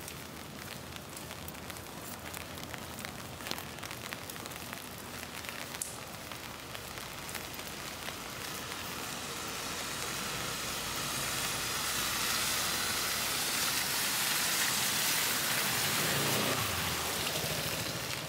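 Steady rain on a city street, with individual drops heard as sharp ticks. From about halfway through, the hiss of tyres on the wet road swells as a vehicle passes, then eases off just before the end.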